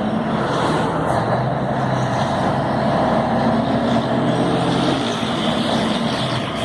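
Scania 112 truck's six-cylinder diesel engine running steadily under way, with road noise; the engine note shifts slightly about five seconds in.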